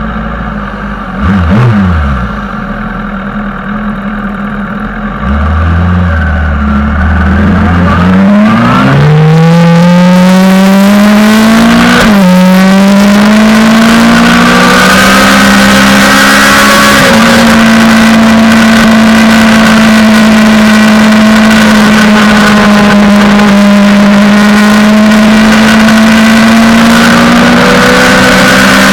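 Suzuki GSX-R600 sportbike's inline-four engine running low at first, then, about eight seconds in, revving up hard as the bike pulls away. The pitch drops twice on upshifts, then the engine holds a steady high note, with rushing wind noise building as the speed rises.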